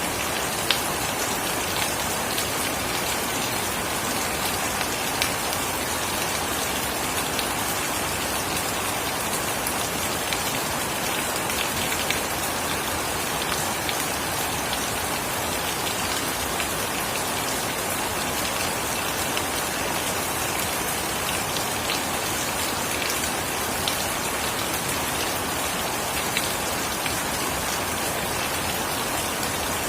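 Steady rain falling, with a dense even hiss and scattered louder drops striking a surface.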